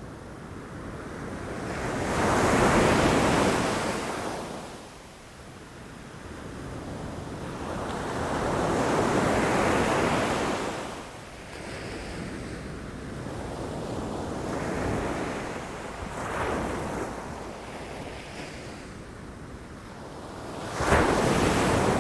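Ocean waves breaking against rocks, coming in as separate swelling surges of surf a few seconds apart, with the last break near the end sharper and more sudden than the others. Some wind on the microphone.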